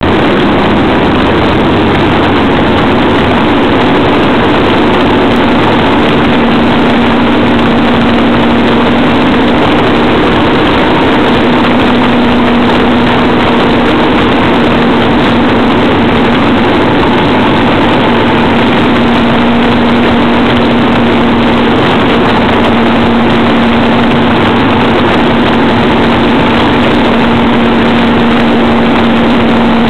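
Motorcycle engine running at a steady pace while riding, its engine note shifting slightly in pitch now and then under a loud, even rush of noise.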